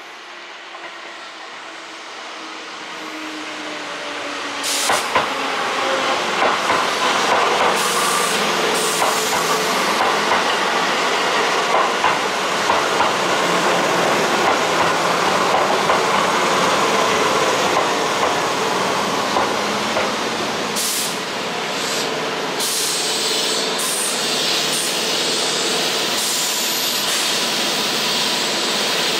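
An older pre-VVVF Keihan electric train running past close by. It builds over the first few seconds, then holds a steady rolling noise and hiss, with wheel clicks over the rail joints.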